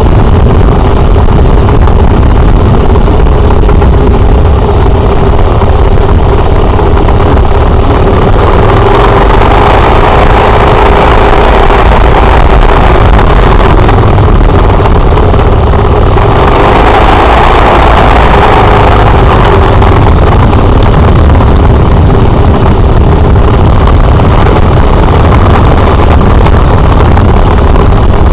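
Motorcycle engine running steadily and loudly, with two stretches of heavier, fuller sound about nine and seventeen seconds in.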